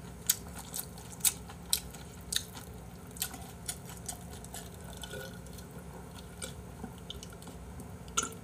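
Close-miked chewing of a mouthful of food, with sharp wet mouth clicks about twice a second. About halfway through it goes quieter, with a few soft swallows as a drink is taken from a glass.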